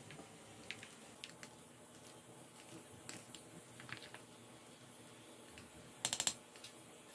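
Wooden spoon stirring a thick gochujang seasoning paste in a glass bowl: faint, scattered small clicks and squishes, with a quick run of about four louder clicks near the end.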